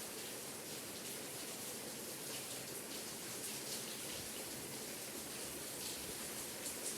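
Steady rain falling, with many small drops ticking on a surface close by.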